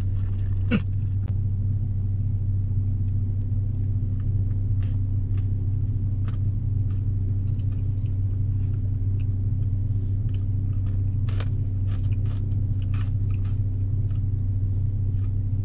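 Steady low hum of a parked car's idling engine heard inside the cabin, with scattered light clicks and rustles from a plastic spoon and dessert cup; one sharper click comes about a second in.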